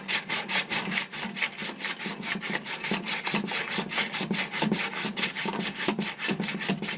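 Rapid back-and-forth hand sanding of a metal motor shaft, about five strokes a second, smoothing the shaft so a stuck pulley will slide off.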